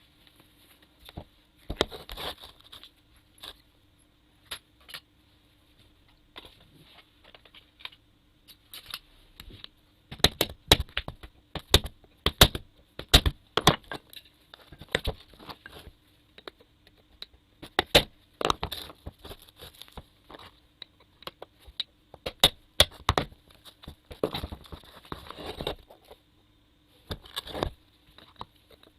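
Hand tools and parts of a small water circulation pump motor being worked apart: irregular sharp clicks and knocks, with a few short stretches of scraping.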